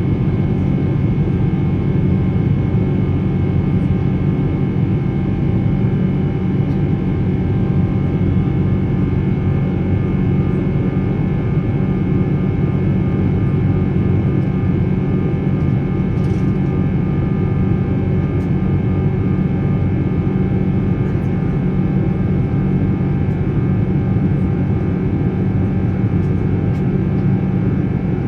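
Rolls-Royce Trent 800 turbofan engines of a Boeing 777-300 running steadily, heard from inside the passenger cabin: an even, loud low drone with several steady whining tones above it.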